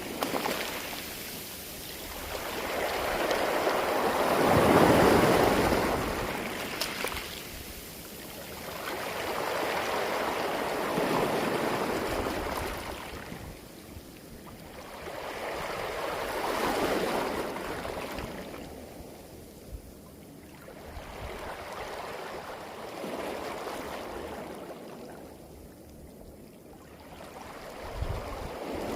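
Sea waves washing up a beach of round pebbles and drawing back through them with a hissing rattle of stones. The surges swell and fade about every six seconds.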